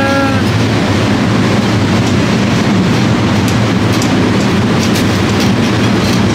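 Steady, loud rattling noise of a moving vehicle or ride, with scattered clicks. A held pitched tone, like a horn, stops about half a second in.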